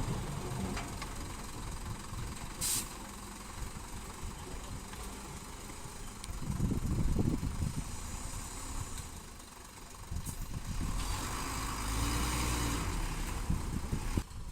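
Diesel engines of a small bulldozer and dump trucks running, with a short hiss about three seconds in and a louder, rougher stretch near the end.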